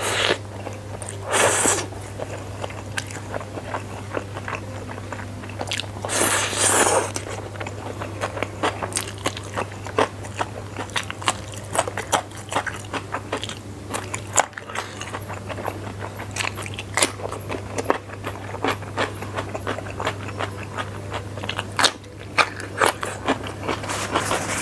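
Close-miked mouth sounds of eating spicy fried flat rice noodles: steady wet chewing with many small clicks and smacks. There are two louder bursts, about a second and a half in and again around six seconds in. A steady low hum runs underneath.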